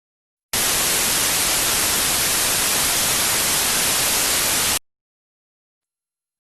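Steady static hiss, an even white noise that starts abruptly about half a second in and cuts off just as suddenly about four seconds later.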